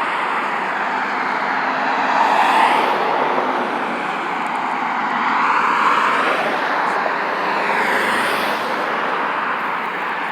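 Road traffic: cars passing by, their tyre and engine noise swelling and fading twice, with falling pitch glides as they go past.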